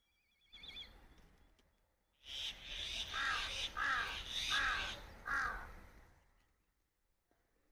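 A crow cawing four times in a steady series over a loud hiss, after a brief warbling bird call about half a second in.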